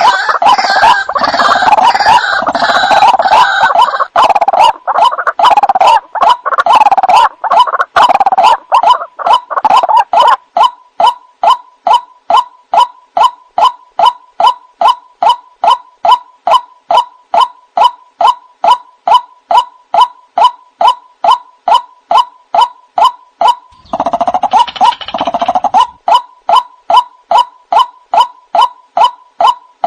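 White-breasted waterhen calling: a loud jumbled chorus of croaking calls, settling about a third of the way in into a long series of repeated single 'kook' notes, about two a second. A second short burst of the jumbled chorus breaks in near the end before the repeated notes resume.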